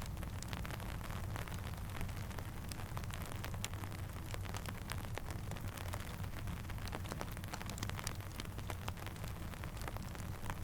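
Steady rain falling, mixed with a crackling campfire: many scattered sharp ticks and pops over an even hiss and a low rumble.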